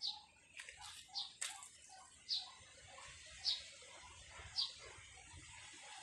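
A bird repeating a single short, high chirp about once a second, with two sharp clicks about a second in.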